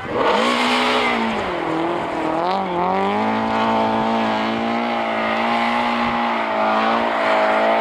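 Rally car engine at high revs passing close. It comes in suddenly, its pitch dips and wavers over the first three seconds, then holds high and steady.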